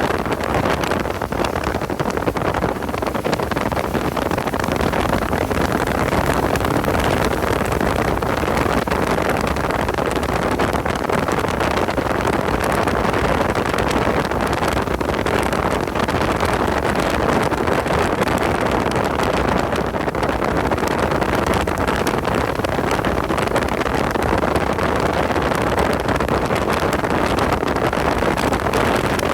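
Car running at speed on a race track: a steady mix of engine, road and wind noise.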